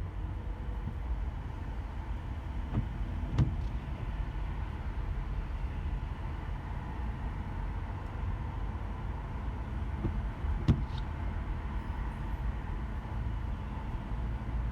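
Car driving slowly in traffic in light rain, a steady low rumble of engine and tyres on wet road. A few short knocks stand out, the loudest about ten seconds in.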